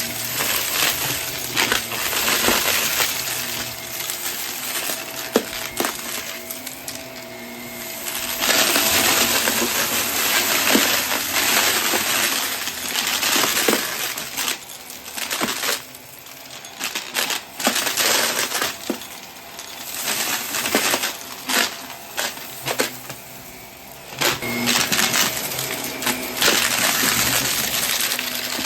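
Vacuum cleaner picking up a weighted debris mix, with dense rattling and clicking as the bits of debris are sucked in, over the machine's steady hum. The rattle thins out and comes back several times.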